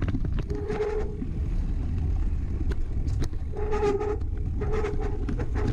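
Steady low rumble of wind and motion on the microphone while riding a bicycle along a sandy trail, with scattered ticks and three short buzzy tones about a second in, near four seconds and near five seconds.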